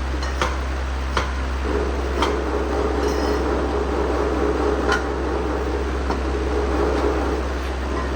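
Tools and metal engine parts clinking a few times in a workshop over a steady low hum, with a rushing noise through the middle.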